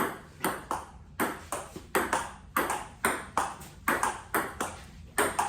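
Table tennis rally: the celluloid-type ball clicking off paddles and the table in a steady rhythm of about two to three hits a second.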